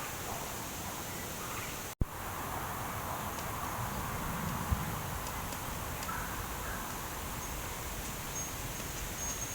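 Steady background noise with a brief dropout about two seconds in, and a few faint, short, high chirps later on.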